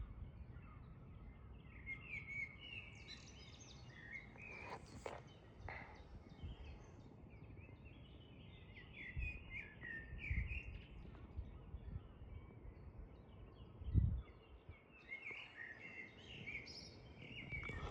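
Birds chirping faintly over a low background rumble, with a brief low thump about 14 seconds in.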